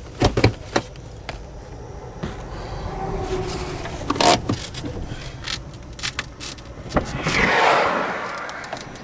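Car-interior noise just after a collision: scattered knocks and clatter over a low rumble, which drops away about seven and a half seconds in, followed by a rushing swell of noise that fades out.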